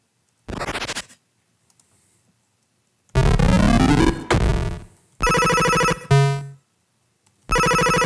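A string of short synthesized electronic sound effects with silences between them, played one after another as candidate higher-pitched layers for a pass-by. First comes a brief buzzy burst, then a burst of criss-crossing rising and falling tones, then short buzzy electronic tones. Near the end a buzzy tone starts and holds.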